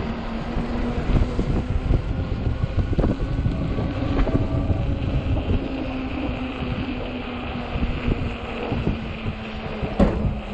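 Wind buffeting the microphone while riding a 48V fat-tire e-bike, over a steady electric-motor hum and tyre noise. A sharp knock comes near the end.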